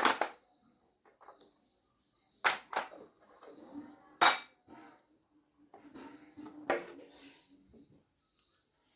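Hard metal objects clinking and knocking as they are handled and set down: a few sharp clinks, the loudest a little past the middle, with quieter rattling between.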